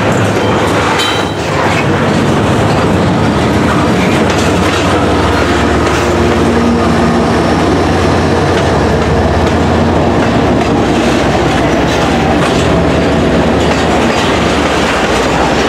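Double-stack intermodal freight train passing close by with a steady loud rumble. Its mid-train GE ES44AC remote locomotive's diesel engine passes during the first half, then loaded well cars follow with wheels clicking over the rail joints.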